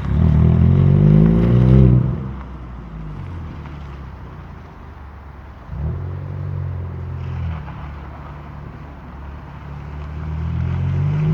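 VW Scirocco 2.0 TSI four-cylinder turbo petrol engine through a Remus cat-back exhaust with a Supersprint middle pipe, catalytic converter kept, revving in bursts. A climbing rev cuts off about two seconds in. A sudden jump about six seconds in holds briefly and falls away, and a rise comes again near the end.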